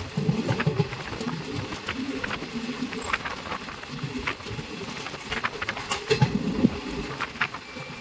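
Passenger express train in motion, heard from on board: an uneven low rumble with many sharp clicks and rattles.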